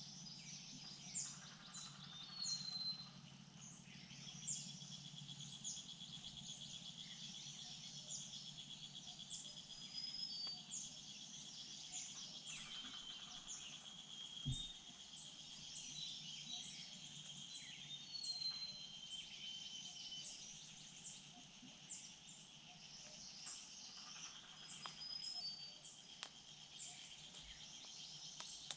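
Woodland ambience: small birds calling throughout in short, high, down-slurred chirps and a few brief whistles, with an insect's steady, buzzing trill through much of the first half. A single soft knock sounds about halfway.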